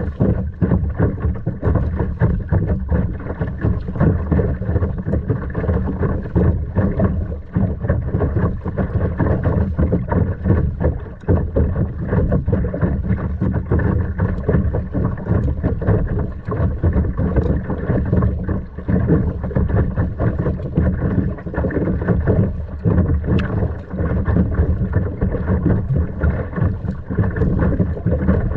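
Steady wind buffeting the microphone, mixed with water sloshing around a kayak on the sea.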